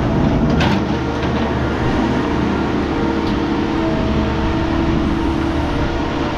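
Scrap metal baler running steadily, its hydraulic pump giving a constant hum, with a few sharp metallic clanks of scrap being packed.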